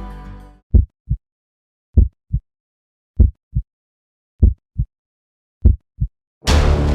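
Heartbeat sound effect: five slow double thumps, lub-dub, a little over a second apart, as one piece of music fades out. Music comes back in loudly near the end.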